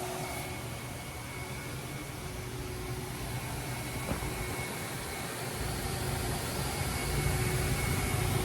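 Car-wash vacuum running steadily: a constant hiss with a faint steady hum, the low rumble growing a little stronger over the second half.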